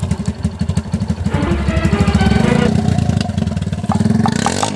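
Tractor's diesel engine running under load, its regular low firing beat speeding up and getting louder about two seconds in, then easing off near the end.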